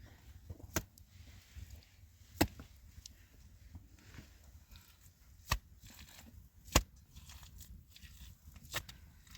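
Five sharp strikes, like blows with a tool on wood or stone, coming irregularly one to three seconds apart, two of them much louder than the rest.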